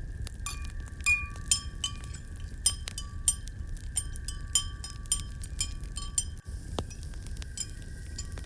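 Irregular light glassy clinks, each with a brief ring, come a dozen or more over several seconds. They sound over the low steady rumble of a fireplace fire and a faint steady high tone.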